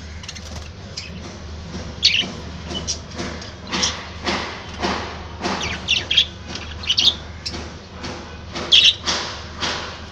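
Budgerigars chattering in a string of short chirps and squawks that start about two seconds in, over a steady low hum.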